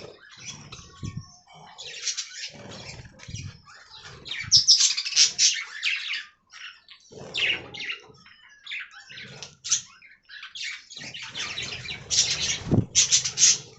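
Budgerigars chirping and chattering in quick, irregular bursts of high twittering, louder in two spells, with a sharp knock near the end.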